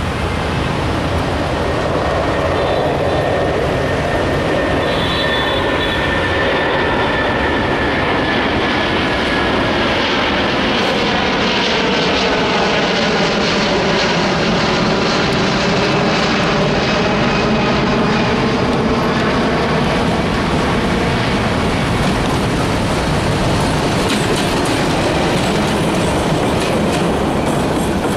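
Old diesel locomotive hauling a metre-gauge passenger train, its engine drone sliding in pitch as it draws near. Near the end the coaches roll close past, wheels clicking over the rail joints.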